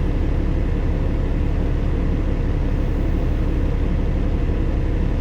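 Steady low rumble of a semi truck running, heard from inside the cab.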